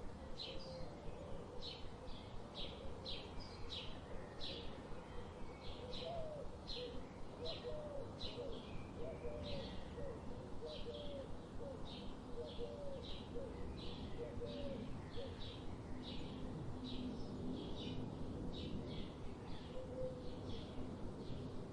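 A bird calling with short, high notes repeated about twice a second without a break. A fainter, lower series of hooked notes joins in during the first half.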